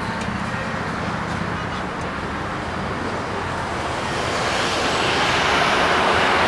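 Road traffic noise: a steady rush of passing vehicles that grows louder about four seconds in.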